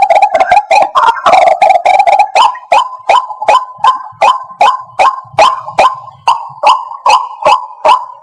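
White-breasted waterhen calling: a dense run of overlapping croaking notes that, about two seconds in, changes to a steady series of sharp repeated calls, about three a second.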